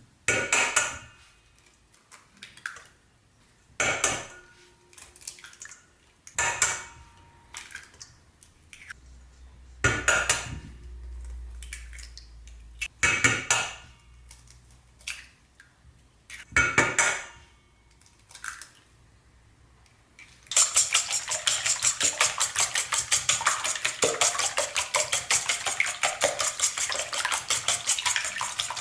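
Six eggs cracked one after another against a bowl, each a sharp knock a few seconds apart. Then, about twenty seconds in, the eggs are whisked in the bowl: a fast, continuous clatter of quick strokes.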